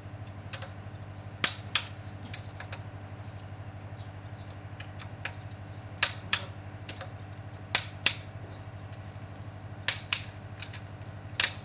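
Click-type torque wrench clicking as bolts on a Toyota 2KD-FTV diesel engine reach their set torque, tightened in steps. Five pairs of sharp metallic clicks, a pair every two seconds or so, over a steady low hum.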